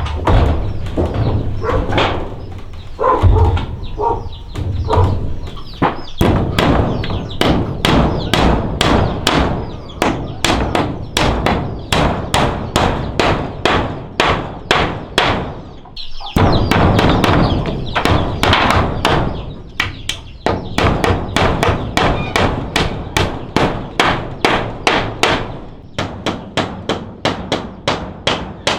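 Repeated hammer blows on wood, about two strikes a second, with two short breaks partway through. Chickens cluck in the first few seconds.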